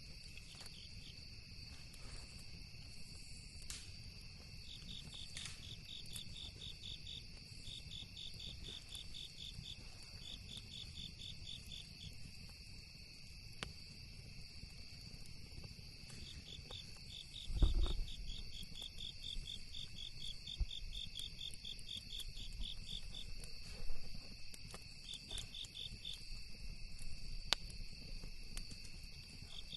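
Crickets and other insects calling: two steady high trills, with a fast pulsing chirp that starts and stops in runs. Faint scattered campfire crackles and pops sit beneath them, and there is a single low thump a little past halfway.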